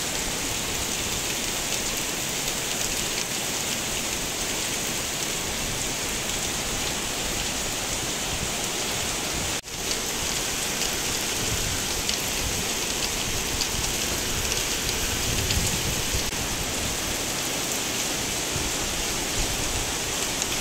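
Heavy rain pouring steadily onto a wet road and paving, a dense even hiss. The sound drops out for an instant about ten seconds in.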